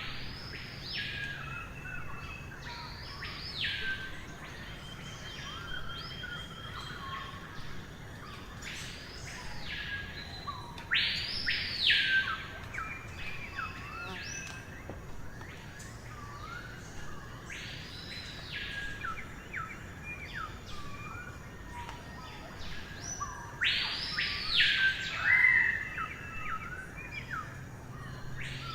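Songbirds singing: one bird repeats a loud whistled phrase that sweeps up, holds high and drops back down every few seconds, with softer chirps and short notes from other birds between.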